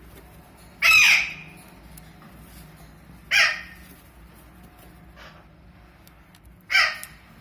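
Alexandrine parakeet (Raw parrot) giving harsh screeching squawks, three loud ones about three seconds apart with a fainter one between, each call short and sliding down in pitch.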